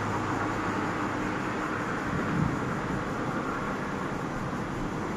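Steady hum of distant road traffic in the open air, with one brief low thump about two and a half seconds in.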